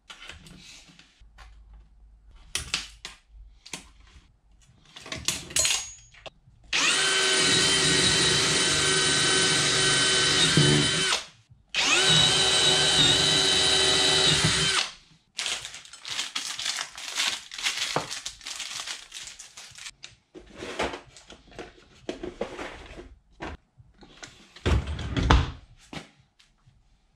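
Cordless drill running twice, for about four seconds and then three, drilling screw holes for drawer handles, with scattered clicks and knocks of handling before and after.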